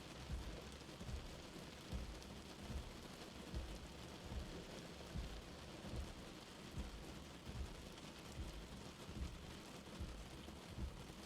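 Light rain falling: a steady faint hiss of rain with soft, dull drop knocks every half second to second.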